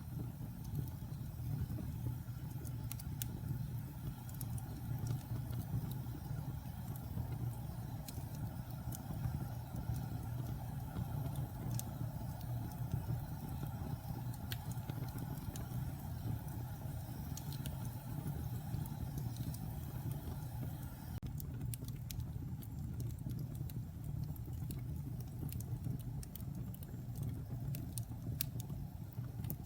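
Wood fire burning in a fireplace: a steady low rumble of flame with scattered sharp crackles and pops throughout.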